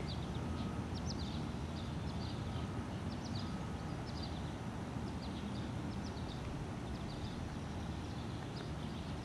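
Outdoor background: a steady low rumble with small birds chirping in short, scattered high notes throughout.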